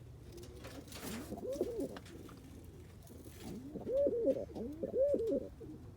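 Roller pigeon cock birds cooing in a series of rising-and-falling coos. A softer coo comes about a second and a half in, and a louder run of coos follows from about four seconds in. These are cocks in breeding condition.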